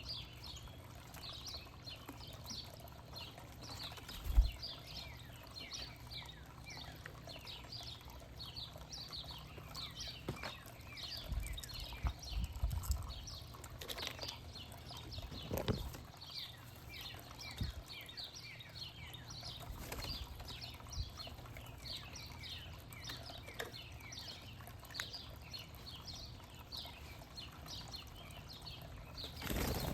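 Small birds chirping steadily, a dense run of short downward-sweeping chirps, with scattered low knocks and thumps; the loudest knock comes about four seconds in.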